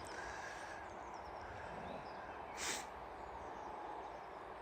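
Faint outdoor ambience: a steady low wind-and-yard noise with faint bird chirps, and one brief breathy burst of noise just under three seconds in.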